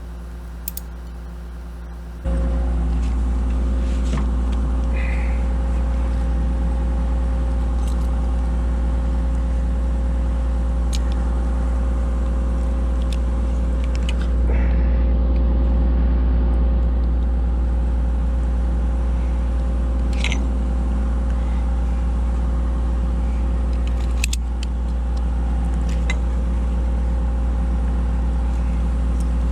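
Diesel engine of a Kobelco SK250 LC excavator running steadily. It comes in louder about two seconds in and swells briefly around the middle, with a few sharp metallic clicks over it.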